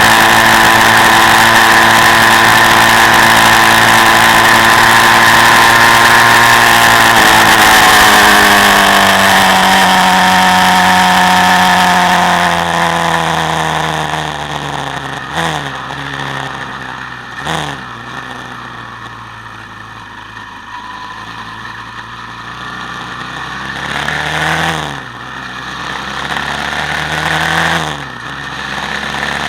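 Quad bike engine running at high, steady revs, then the revs fall away over several seconds as the throttle is eased off. It then runs lower and quieter, with four short blips of throttle that rise and fall in pitch.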